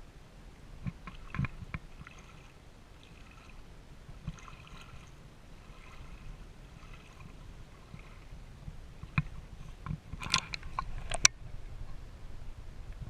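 Flowing river water, with scattered sharp clicks and knocks and a quick cluster of louder ones about ten seconds in.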